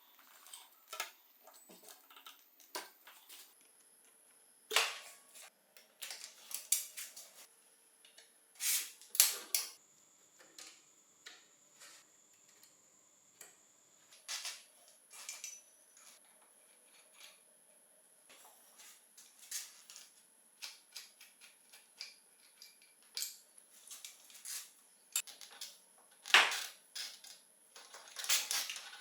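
Irregular sharp metallic clicks and clatters from hand tools and bicycle parts as a mountain bike's front brake and stem are taken apart. The loudest knocks come about 5 and 9 seconds in and near the end.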